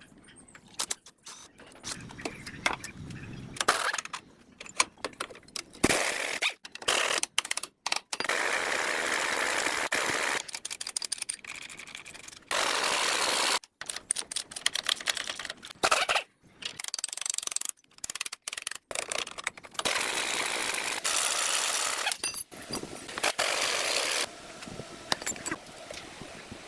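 Restoration workshop power-tool noise in a string of short, abruptly cut bursts: loud, even noise lasting a second or a few seconds each, with scattered knocks and clicks between them.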